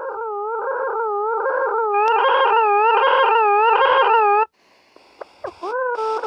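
Electronic tones generated in the Desmos graphing calculator: a buzzy pitched tone whose pitch wavers up and down about every 0.8 s, growing brighter about two seconds in, like a howl. It cuts off suddenly about four and a half seconds in, followed by faint hiss, a few clicks and short swooping tones.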